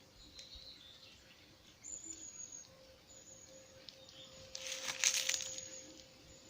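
Small birds chirping with short, high calls over a faint steady ringing tone, with a brief loud rustling burst about five seconds in.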